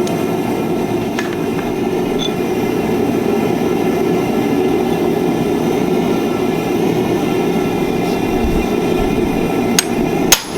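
Two sharp hammer blows on steel near the end, the second the loudest, over a steady rushing noise.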